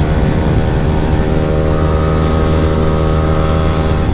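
Yamaha R15 V3's 155 cc single-cylinder engine through an Akrapovic R9 aftermarket exhaust, held at high revs with a steady note in a flat-out run at about 130 km/h, with wind rushing past.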